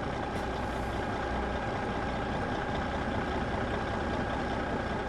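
DIY mini tractor running at a steady pace: an even engine-like drone with a faint steady whine.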